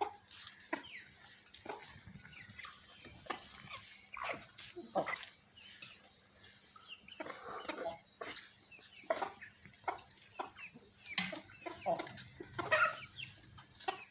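Hens, roosters and chicks clucking in short scattered calls as they feed on scraps of dry roti, over a steady high hiss. A single sharp click near the end.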